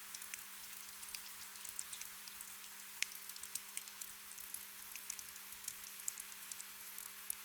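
Gentle rain: a steady hiss with many scattered drops ticking at irregular moments, over a soft steady low hum.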